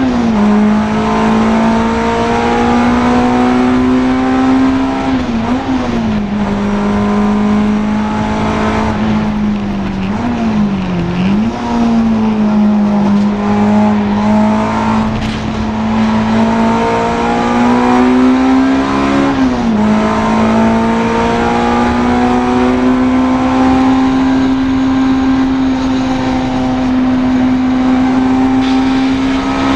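Racing Honda Integra DC2 engine running hard at high revs, its pitch held steady between a few brief drops and recoveries, around five, eleven and nineteen seconds in, at gear changes or lifts for corners.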